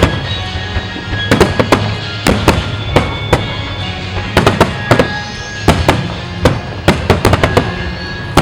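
Wide starmine fireworks: many sharp booms and cracks of shells bursting in quick, uneven clusters, over music playing from loudspeakers.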